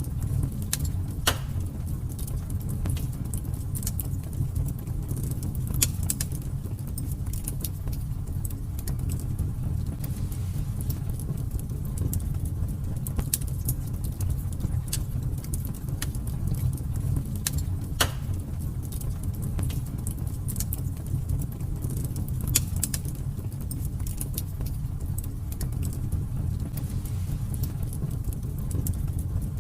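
Wood fire burning in a fireplace: irregular sharp crackles and pops over a steady low rumble, with a few louder pops standing out.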